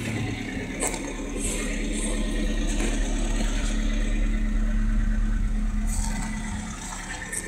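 A car engine idling steadily, most likely the VAZ-2103's own inline-four. The sound grows a little louder through the middle and eases off near the end.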